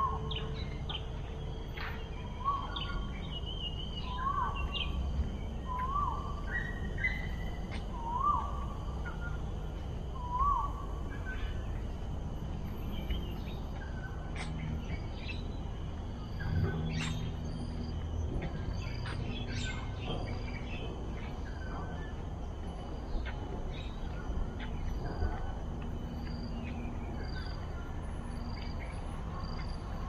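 Wild birds calling over a steady low rumble. In the first ten seconds there is a run of short hooked notes, about one every second and a half to two seconds. After that come scattered higher chirps and clicks.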